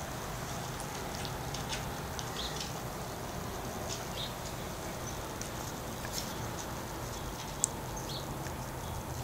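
Scattered short, high chirps of small birds outside, over a steady background hiss and hum, with one sharp click near the end.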